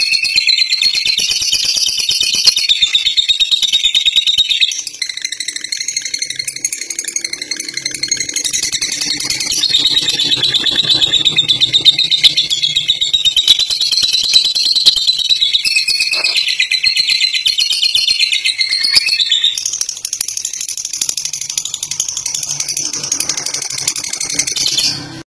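Lovebird singing a long, unbroken 'ngekek' chatter: a rapid, high-pitched trill of clicks and squeaks that goes on without pause, shifting a little in pitch a few times.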